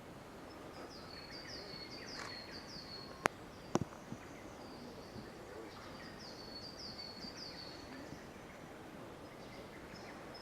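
Siberian blue robin singing two phrases, each a couple of thin high introductory notes followed by a fast rattling trill of repeated falling notes. Between the phrases, about three to four seconds in, come two sharp clicks.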